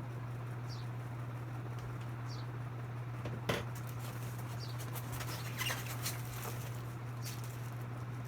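Ceiling fan parts and their packaging being handled: rustling and crinkling with scattered clicks and one sharper knock about three and a half seconds in, over a steady low hum.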